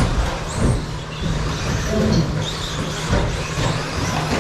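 A pack of 1/10-scale electric 2wd RC stadium trucks racing: motor whines rising and falling in pitch as they accelerate and brake, over a rumble of tyres on the track, with a few short knocks.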